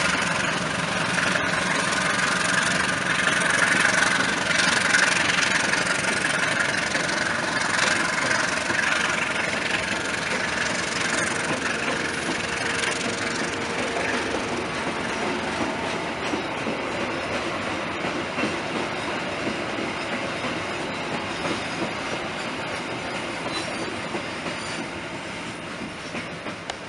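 Passenger train coaches rolling past on the rails, the sound peaking early and then fading steadily as the train pulls away.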